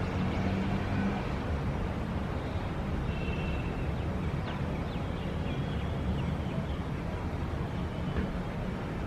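Steady city traffic rumble, with faint short bird chirps now and then.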